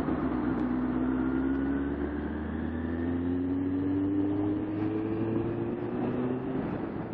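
Vehicle engine accelerating while on the move: its note rises steadily for about six seconds, then drops back near the end as with a gear change and starts rising again, over a steady road rumble.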